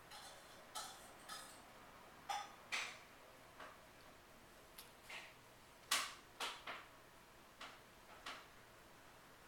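A toddler's utensil clinking and tapping against a dish while eating: about a dozen light, irregular clicks, the loudest about six seconds in.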